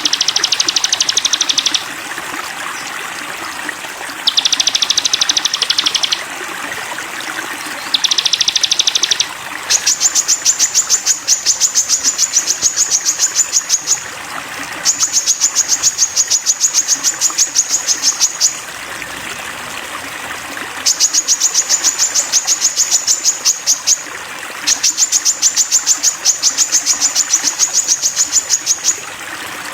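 A sogon songbird repeating a rapid chattering trill in bouts, over a steady background hiss like running water. The first three bouts are short, then from about a third of the way in come four longer, slightly higher-pitched bouts of several seconds each.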